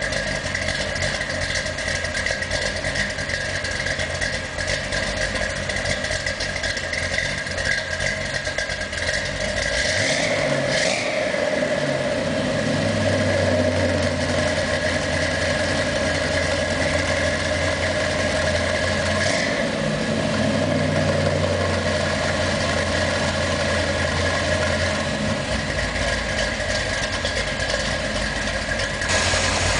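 Small-block V8 with a four-barrel carburettor idling steadily on its first start, with the slightly uneven lope of a performance camshaft. It gets a little louder from about ten seconds in.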